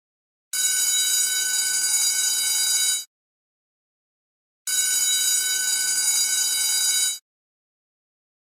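School bell ringing in two bursts of about two and a half seconds each, with a pause of about a second and a half between them, as a looped sound effect.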